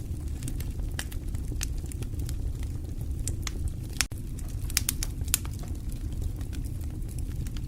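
Wood fire burning in a fireplace: a steady low rush of flame with sharp, irregular crackles and pops from the burning logs. A split-second dropout cuts in about halfway through.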